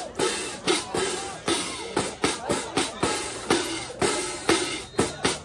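Marching band drumline playing a cadence: loud snare and bass drum hits, about two a second, with the drum heads ringing between strokes.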